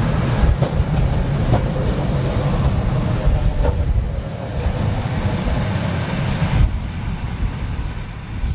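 ED9M electric multiple unit running past on the track, a loud, steady low rumble with scattered wheel clicks. A thin high whine joins about six seconds in.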